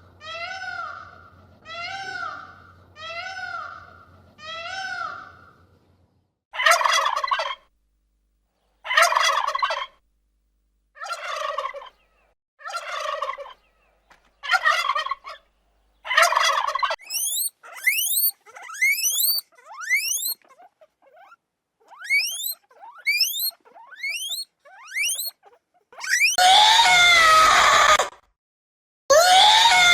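A series of animal calls from several different animals in turn: five short pitched calls about a second apart, then louder calls about every two seconds, then quick rising chirps, and near the end two long, loud, harsh calls.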